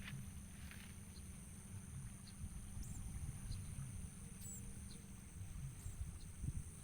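A few brief, high chirps from a small bird, a couple of seconds apart, over a steady high-pitched hum and a low rumble.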